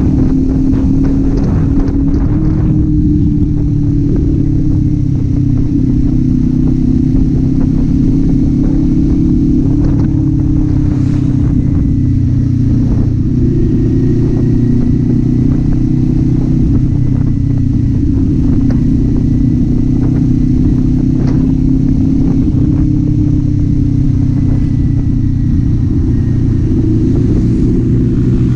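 Kawasaki Z400's parallel-twin engine and exhaust running at a steady cruise, its note holding nearly constant with slight rises and dips.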